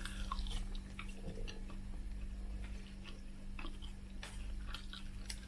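Quiet eating sounds: scattered faint clicks of chewing and mouth noises, over a steady low hum.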